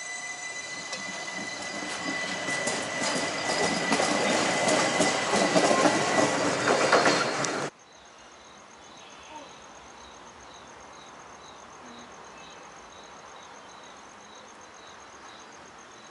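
Electric light-rail train moving past at close range, getting louder as it goes, with wheels clacking over the rails and a steady high whine. It cuts off abruptly about eight seconds in, leaving a quiet night background with faint, regular high-pitched insect chirping.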